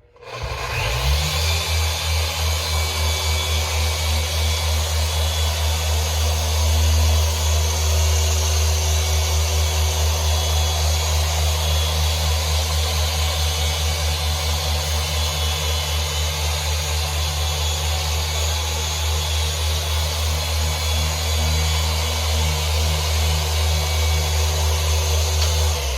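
Machine polisher set to speed 5 running on a car windshield with glass polish, a loud steady drone with a quick pulsing in its loudness. It winds up about a second in and stops near the end.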